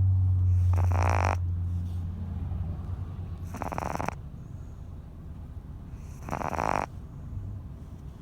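Boston terrier snoring in its sleep: three short snores about two and a half to three seconds apart. A low steady hum over roughly the first two seconds is the loudest sound.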